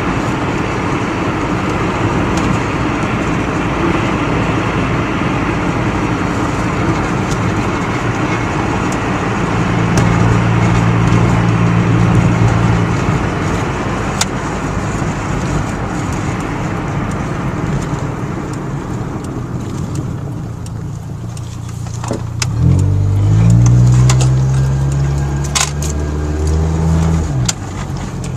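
Truck driving along, with steady road noise and engine hum. The engine note grows louder and climbs as it accelerates about three-quarters of the way through, then drops away.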